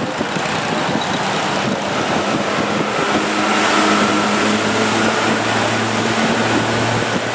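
Boat engine running steadily over a loud wash of water and wind noise, its steady hum growing stronger about three seconds in.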